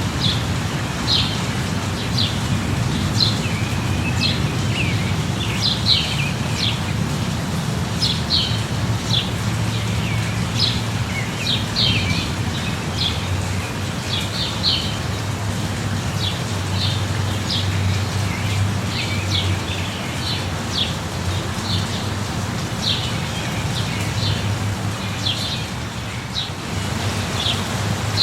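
Steady light rain with a bird chirping over it, short high chirps about once a second, above a low steady rumble.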